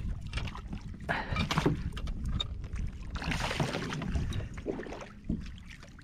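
Water splashing and sloshing in irregular bursts at the side of a kayak while a hooked smallmouth bass is fought near the surface, over a low wind rumble on the microphone.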